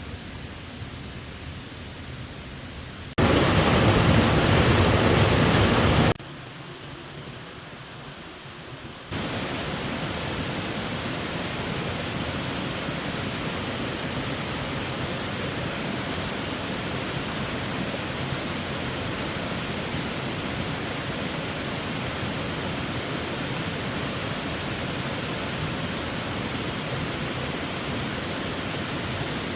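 Rushing water, a steady even roar like a waterfall or fast stream. It jumps abruptly in level: much louder from about three to six seconds in, quieter until about nine seconds, then steady for the rest.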